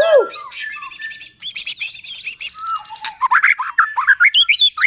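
White-rumped shama (murai batu) singing a fast, varied song of whistled glides, sharp chirps and rattling notes, with a quick string of falling notes in the second half.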